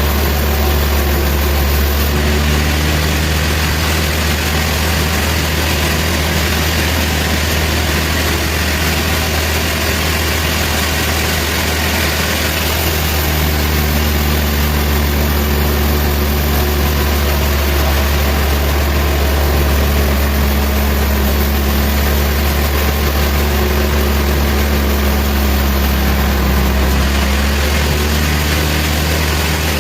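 Sawmill machinery running steadily, a loud deep hum with a constant hiss over it, changing only slightly a few times.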